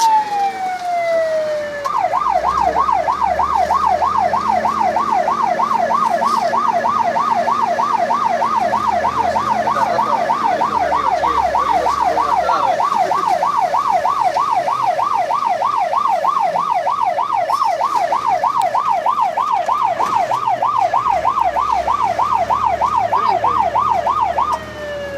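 Fire engine's electronic siren: a wail falling away at the start, then switching to a fast yelp sweeping up and down about three times a second, and a rising wail again right at the end, over the low rumble of the truck's engine.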